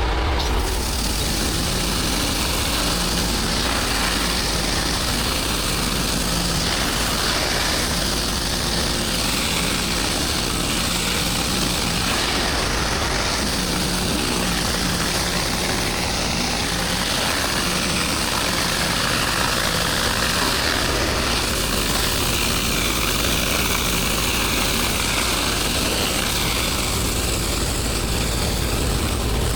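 A small motor running steadily at an even pitch.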